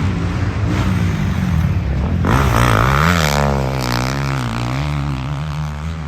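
A motor vehicle engine running steadily. About two seconds in, a louder engine sound with a wavering pitch comes in, then gradually fades.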